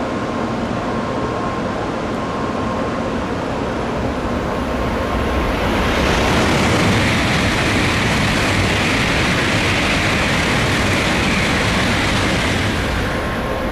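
N700A Shinkansen bullet train passing at high speed: a rushing noise that swells about five seconds in, stays loud for several seconds, and eases near the end.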